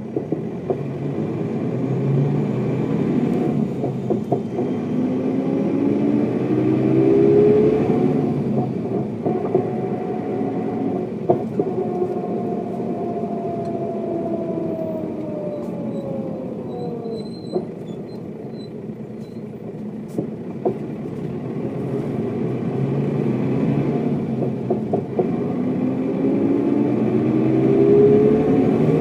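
1995 Mercedes-Benz O407 bus's diesel engine running under way. Its note rises through the first several seconds as the bus pulls, falls away in a long slow glide in the middle, and climbs again near the end.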